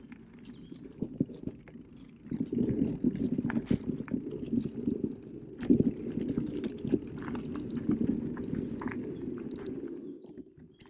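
Specialized Turbo Kenevo SL e-mountain bike rolling over a forest trail: a steady rumble of tyres on dirt with frequent knocks and rattles from the bike. It gets louder about two seconds in and drops away just before the end.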